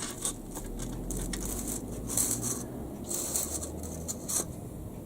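Faint scraping, rustling and small taps of a part being worked by hand into place on a model railway baseboard.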